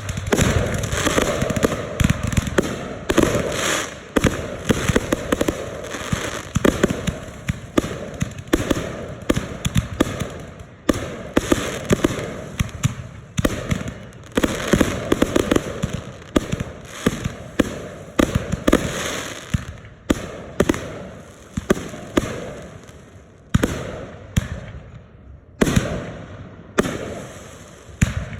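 Aerial consumer fireworks firing in a finale: a dense, nearly continuous run of overlapping shell bursts and crackle that thins out to separate bangs a second or two apart near the end.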